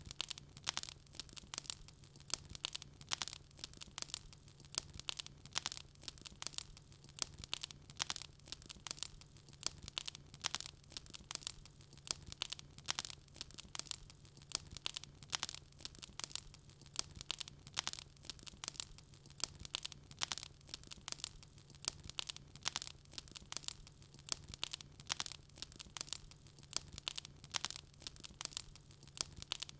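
Wood fire burning in a fireplace, crackling and popping steadily with many small irregular snaps each second.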